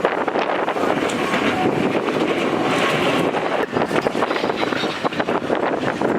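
Steady rumble and rattle of a moving trolley car, with wind buffeting the microphone.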